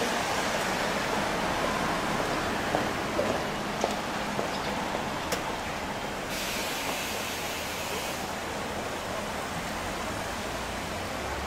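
Steady rain falling, with a few sharp ticks of drops or footsteps a few seconds in and a brief high hiss lasting about two seconds midway. A low hum comes in near the end.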